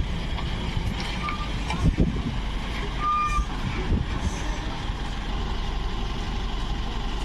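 Heavy truck engines running steadily, with two short high-pitched beeps, a brief one about a second in and a longer one about three seconds in.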